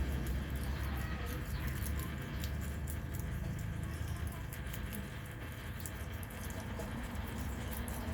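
Small pets nibbling and chewing food, a quick irregular run of faint crunching clicks over a steady low hum.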